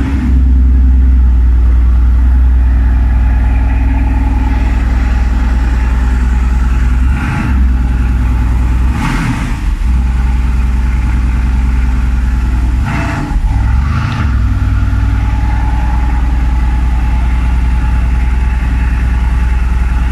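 Mercedes-AMG GT R's twin-turbo V8 idling, loud and steady with a deep low hum.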